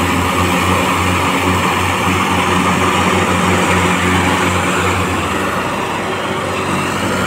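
Tractor diesel engine running with a deep, steady note, easing off slightly about five seconds in.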